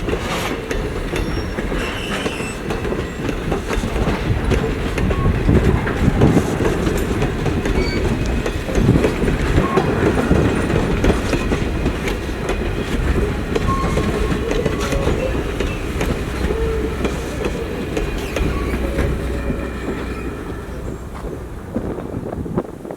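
Steam-hauled passenger train rolling along, its car wheels clacking over rail joints with short squeals from the wheel flanges.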